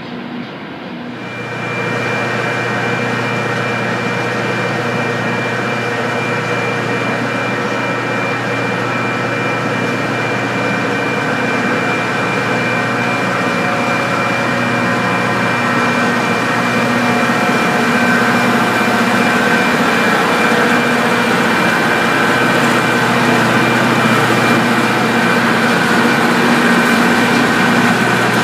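Rail grinder train running on the track, a loud, steady mechanical drone with several constant whining tones over a broad hiss. It jumps louder about a second and a half in and keeps building slowly.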